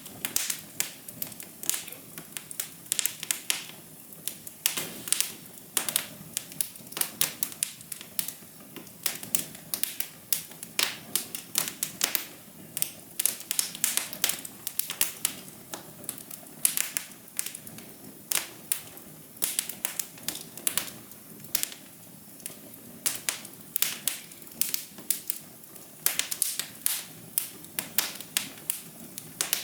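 Fire crackling: many irregular sharp pops and snaps over a soft, steady hiss.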